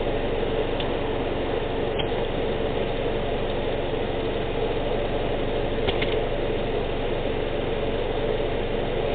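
Subaru Outback's engine idling steadily while the CVT warms to about 40 degrees for the fluid-level check, with a few faint ticks.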